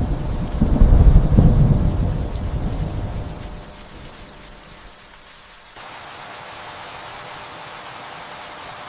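Steady rain with a rumble of thunder that swells at the start, is loudest about a second in and dies away over the next few seconds. The rain hiss grows suddenly louder about six seconds in and holds steady.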